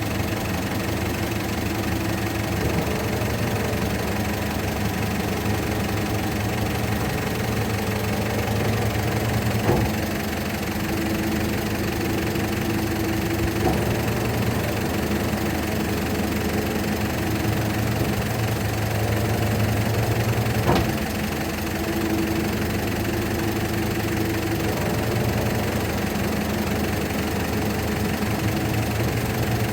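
Rotary-plate garbage truck running steadily while its packer works the load, the engine note swelling and easing in stretches. Two sharp clanks, about ten seconds in and again about twenty-one seconds in.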